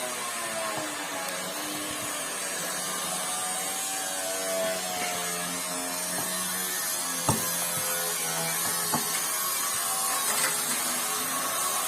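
Washing machine motor running steadily for about twelve seconds with a whine that wavers in pitch. Two sharp knocks come about seven and nine seconds in.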